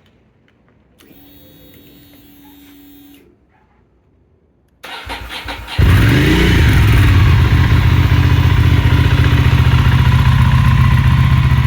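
2002 Ducati Monster 620's air-cooled L-twin engine started from completely cold: a short steady hum, then the starter cranks for about a second before the engine catches and settles into a loud, steady fast idle on the choke.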